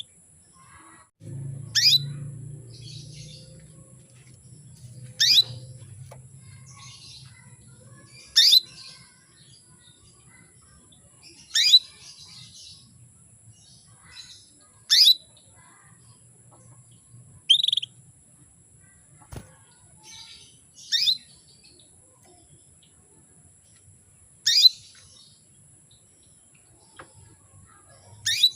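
Female domestic canary calling: single short, sharp chirps that sweep steeply down in pitch, repeated about every three seconds. This is the call of a hen in breeding condition summoning a male.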